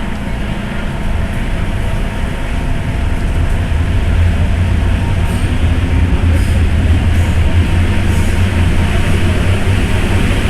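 MTR M-Train electric metro train running and picking up speed after leaving the station: a low rumble with wheel and track noise that grows louder over the first few seconds, then holds steady.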